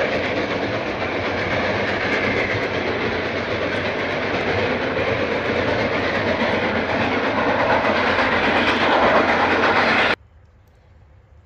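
Train running on the rails, a loud steady rush of noise that swells slightly, then cuts off suddenly about ten seconds in.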